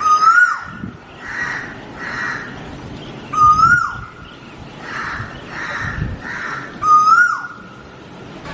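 A bird calling: a whistled note that rises slightly and then drops sharply, repeated three times about every three and a half seconds.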